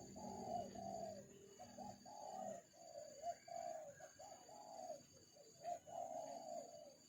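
Dove cooing in a run of short, low coos, one after another with brief gaps.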